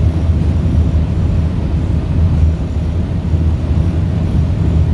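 Heritage diesel locomotive engine running steadily, a loud, even low rumble.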